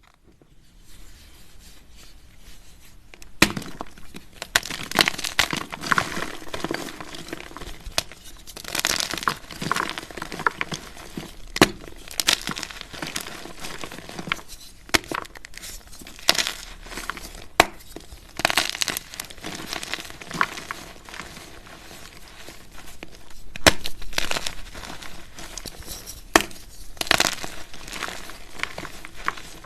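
Baking soda being crushed and crumbled, making an uneven run of crunching and crackling with sharp cracks here and there.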